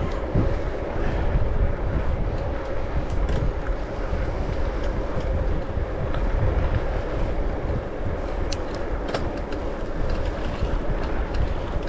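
Wind rushing over a GoPro microphone while riding a bike, with steady rolling road noise and a faint steady hum. A few sharp ticks come about three-quarters of the way in.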